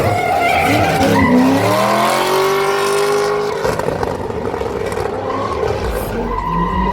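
A high-powered car engine revving hard, its pitch climbing over the first few seconds and then holding, with the tyres squealing and skidding as in a drift or burnout.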